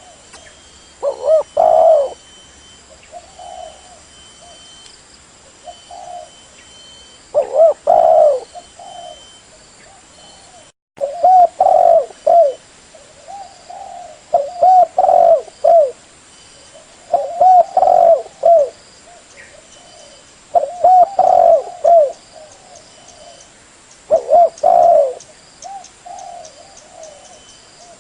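Spotted dove (tekukur) cooing: a low, repeated coo phrase comes about every three to four seconds, seven times in all.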